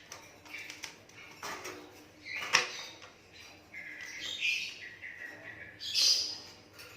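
Hand-reared Asian pied starling (jalak suren) calling in harsh squawks and chatter. There is a sharp loud call about two and a half seconds in, a drawn-out call in the middle, and another loud squawk about six seconds in.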